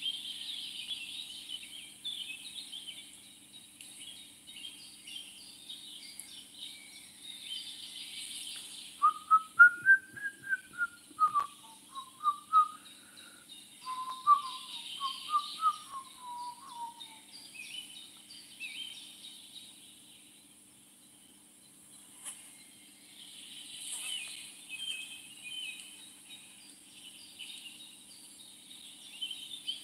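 Birds chirping steadily in the background, with a series of short, clear whistled notes in the middle that rise and fall and then step downward.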